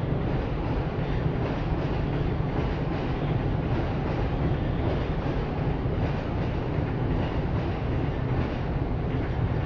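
Steady low rumble of passing vehicles, with no single loud event standing out.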